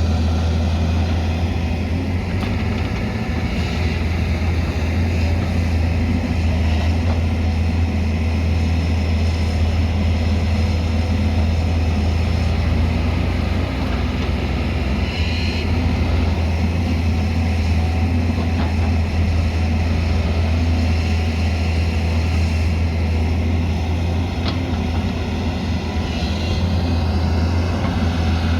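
Diesel engine of a heavy earthmoving machine, a backhoe loader or excavator, running steadily under work with a continuous low drone.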